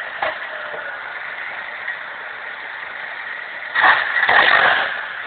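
Modified Pontiac Sunfire 2.2-litre four-cylinder engine running steadily, then a loud rise in engine noise lasting about a second, about four seconds in, as the car moves past.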